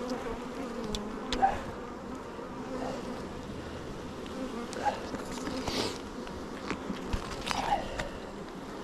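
Honeybees buzzing around an open hive during a frame inspection: a steady hum, with a few louder buzzes as single bees pass close and some light clicks.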